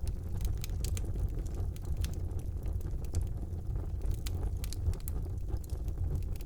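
Wood fire burning in a fireplace: a steady low rumble of flames with frequent scattered crackles and pops from the burning logs.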